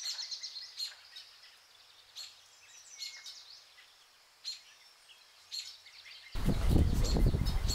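Small birds singing outdoors: scattered short, high chirps and quick trills. About six seconds in, a much louder, fuller sound cuts in over them.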